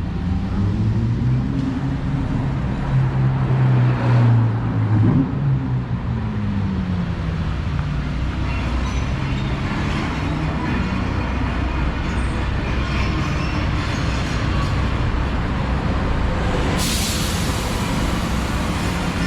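Street traffic rumble, with a large vehicle's engine rising and falling in pitch as it drives past during the first several seconds. A sharp burst of hiss comes near the end.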